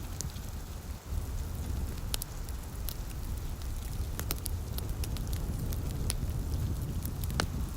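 Fireplace crackling, with scattered sharp pops a second or so apart, over a steady low rumble and the soft hiss of light rain.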